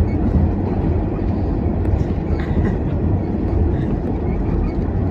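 R46 subway train running, heard from inside the car: a steady low rumble of wheels on rail, with a few faint clicks about two seconds in.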